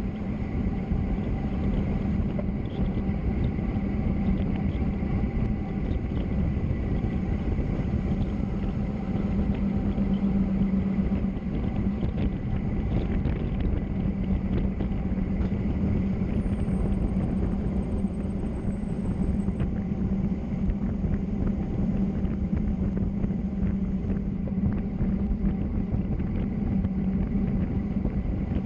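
Steady travel noise down a mountain road: a constant low drone with rushing tyre and wind noise, unchanging throughout.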